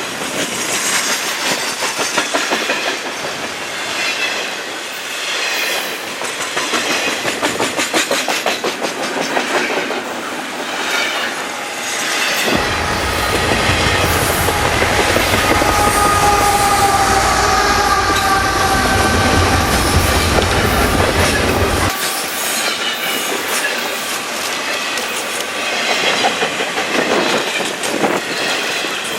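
Double-stack intermodal freight cars rolling past on steel rails, with steady clickety-clack of wheels over rail joints and thin wheel squeal. About midway, a deep rumble comes in for roughly ten seconds and then drops away suddenly.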